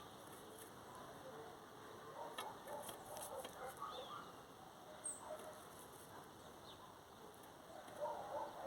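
Birds calling faintly with short chirps and a few quick high whistles, with scattered light clicks.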